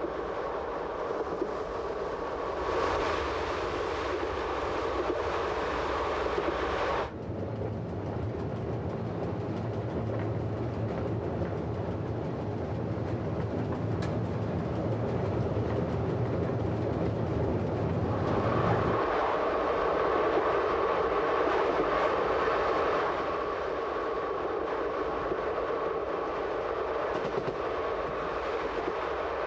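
Electric passenger train running at speed, a steady rumble of wheels on rail with some clickety-clack. About seven seconds in the sound switches abruptly to a deeper, steadier hum, and about nineteen seconds in it switches back.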